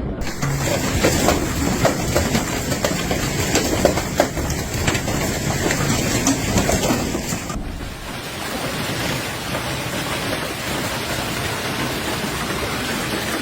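Hailstones and heavy rain pelting hard surfaces: a dense clatter of sharp hits over a steady rush for about seven seconds, then an abrupt change to a smoother, steady downpour.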